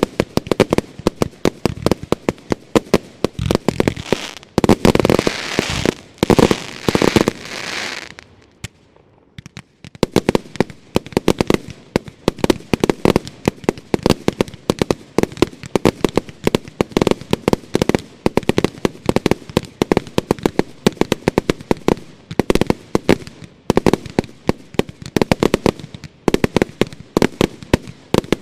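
Fireworks finale: dense, rapid volleys of bangs, growing louder and denser about four to seven seconds in, dropping to a brief lull around nine seconds, then rapid bangs again.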